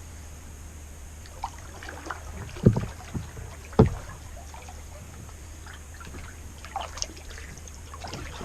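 Kayak being paddled, with small splashes and ticks of the paddle and two sharp knocks about a second apart a few seconds in.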